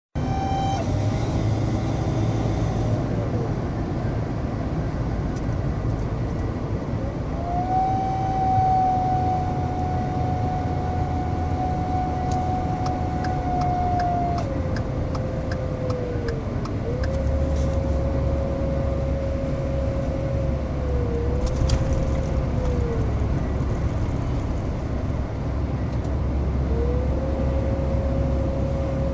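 Ford F-150's 3.5 L EcoBoost twin-turbo V6 running with a whistling whine from a failing turbocharger over a low engine drone. The whine holds steady for several seconds at a time, then dips and climbs back in pitch several times as engine speed changes.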